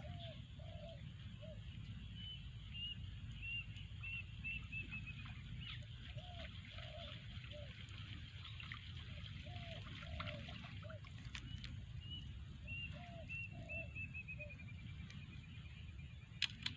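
Birds calling outdoors over a steady low rumble: short groups of three or four low notes, and a higher run of notes that quickens and falls, each pattern heard twice. A sharp click sounds near the end.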